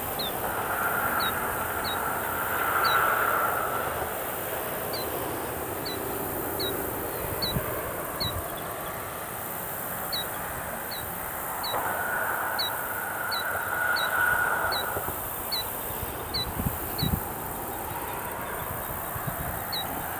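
A small bird giving short, high, downward-sliding chip notes about once a second, over a steady rushing background that swells twice.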